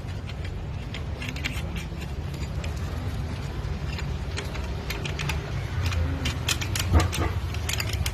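Small metal automatic-transmission parts clinking and tapping as they are handled and fitted, with a sharper knock about seven seconds in, over a steady low hum.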